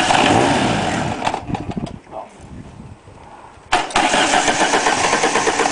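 Ford Escort van's 1.8-litre diesel engine being started: it runs and fades away about two seconds in, then is cranked again and catches abruptly near four seconds and keeps going. The owner takes the rough, unsteady starting for air in the fuel.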